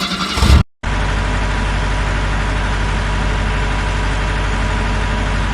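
A music track ends in the first half-second. After a brief break, an engine idles steadily with an even low pulse.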